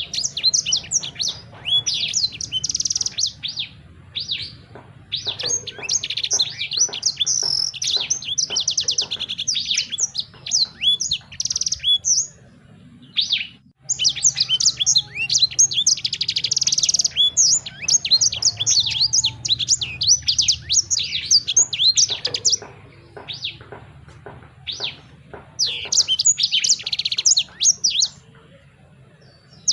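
A songbird singing long, fast phrases of high chirps and trills. The phrases break for short pauses twice, over a faint steady low hum.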